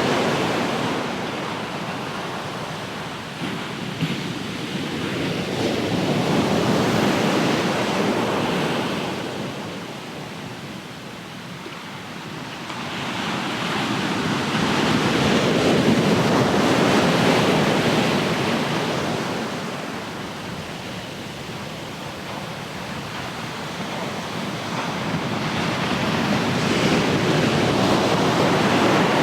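Ocean surf: waves breaking and washing up the shore, the noise swelling and fading about every ten seconds.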